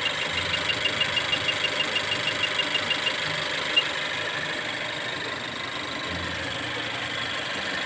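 Mazda 2 engine idling with an intermittent misfire under diagnosis. A sharp, even ticking runs at about six or seven ticks a second, stops about three seconds in, and one more tick comes shortly after.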